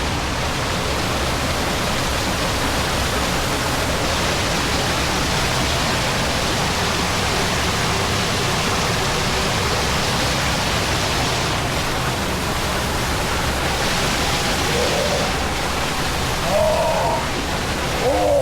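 Steady rush of falling water from a waterfall, an even loud noise throughout, with brief faint voices near the end.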